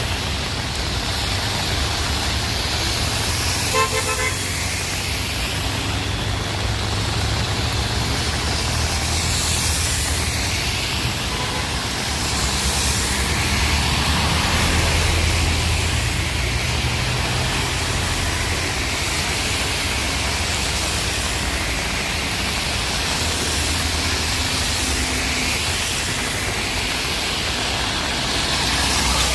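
Road traffic in heavy rain: a steady rumble and hiss of vehicles on the wet street. A car horn sounds briefly about four seconds in.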